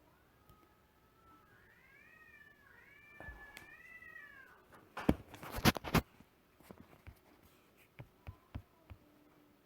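A cat meowing, a run of drawn-out meows that rise and fall in pitch, followed about five seconds in by a cluster of loud sharp knocks and then a few fainter clicks.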